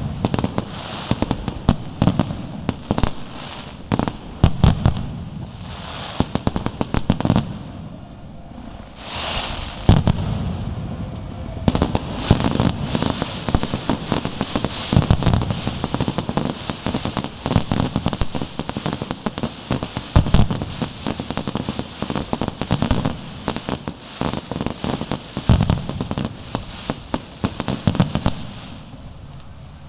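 Aerial fireworks display: shells bursting one after another with deep booms and sharp bangs over a steady crackle. The bursts come thicker and faster from about halfway through.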